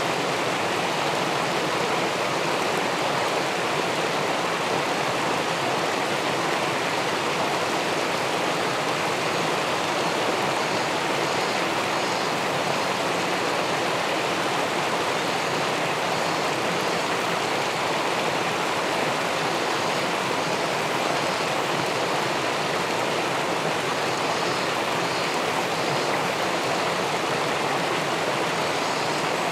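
Steady rushing of river water pouring over a weir into the pool below, an even unbroken wash of water noise.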